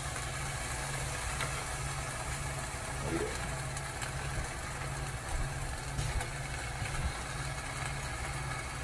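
Ham frying in a pan with a soft, even sizzle, over a steady low mechanical hum.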